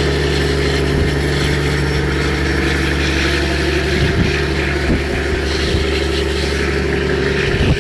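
A boat's engine running steadily at an even speed, a constant low hum.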